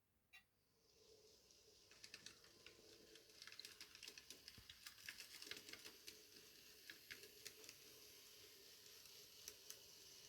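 Faint sound of an N gauge Graham Farish class 158 model train running along the track, growing louder from about a second in. From about two seconds in there is an irregular patter of small clicks.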